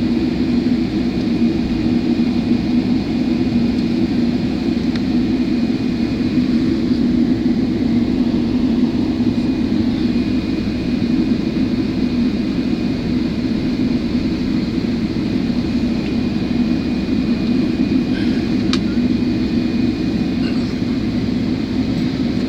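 Cabin noise inside a Boeing 777 rolling on the ground just after landing: a steady, even rumble of engines and airflow, with a thin steady whine above it.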